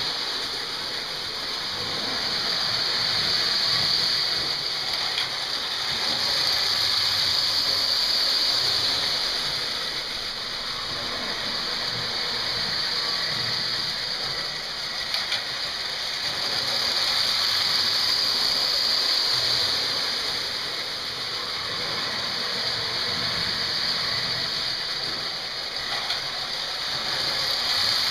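American Flyer prewar 3110 steeple cab electric toy locomotive running on three-rail track: a steady whir of motor, gears and wheels that swells and fades as it goes round the loop, with a few light clicks.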